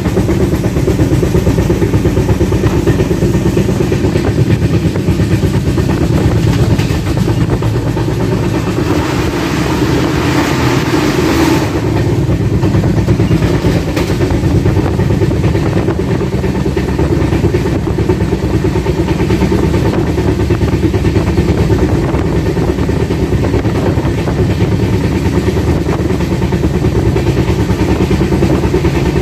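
Passenger train running at speed, heard from an open coach doorway: a steady rumble and clatter of wheels on the rails mixed with wind rush, briefly louder and hissier about ten seconds in.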